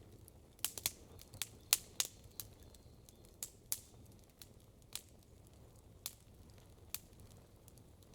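Wood fire crackling: irregular sharp pops and snaps, most of them in a quick cluster in the first half, over a faint low background hum.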